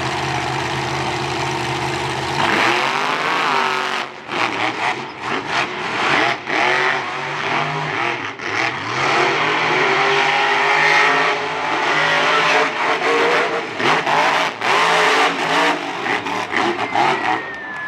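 Monster truck engines idling steadily, then launching at full throttle about two and a half seconds in with a climbing engine note. For the rest, the trucks race, their revs rising and falling with choppy throttle cuts.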